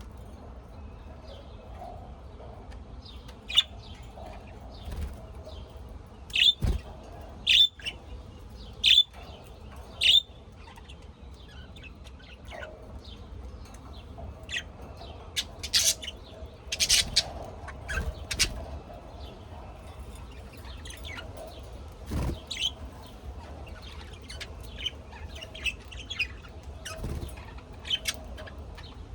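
Birds chirping: short, sharp calls scattered throughout, including a run of four loud calls about a second apart, over a steady low background hum.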